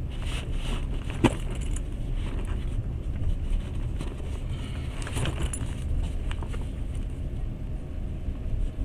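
Passenger train running, heard inside the carriage as a steady low rumble, with scattered clicks and knocks, the sharpest about a second in.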